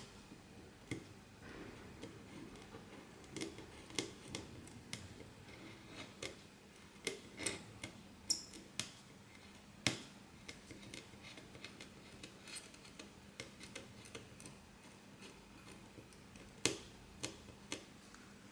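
Small repair tools clicking and tapping on the parts of an iPhone 13 Pro Max opened for repair. The clicks come irregularly, a few to several a second, with the loudest about four, ten and seventeen seconds in, over a faint steady hum.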